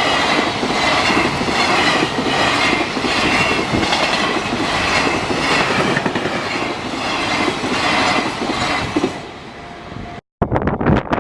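A train passing over a level crossing at speed, its wheels clattering rhythmically over the rail joints. The sound fades away near the end.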